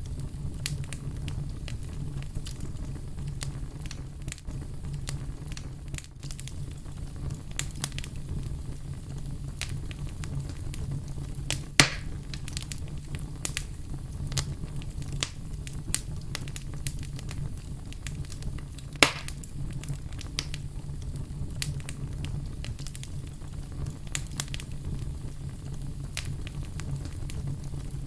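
Fire crackling with a steady low roar, scattered sharp pops and snaps throughout, two of them louder at about twelve and nineteen seconds in.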